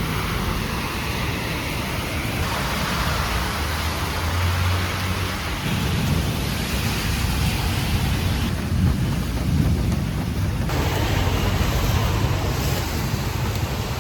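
Rain falling on a city street: a steady hiss with a low rumble underneath. The sound changes abruptly twice, about eight and a half and eleven seconds in.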